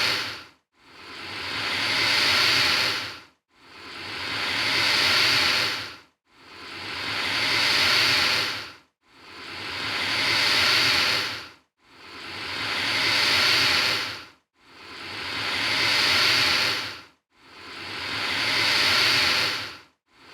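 Alligator hissing, repeated at even intervals about every 2.7 s. Each hiss swells up over a couple of seconds and then cuts off sharply, with a short silent gap before the next, about seven times.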